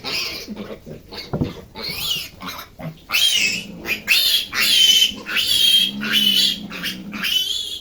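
Piglet squealing again and again, high-pitched cries coming in quick succession, growing louder and more continuous from about three seconds in.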